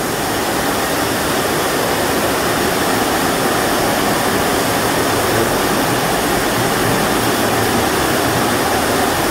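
Heavy rain falling: a loud, steady hiss that does not change.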